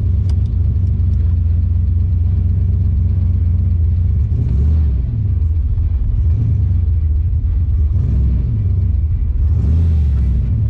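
Turbocharged 331 small-block Ford V8 in a Foxbody Mustang, heard from inside the cabin, running with a steady deep rumble as the car pulls away slowly.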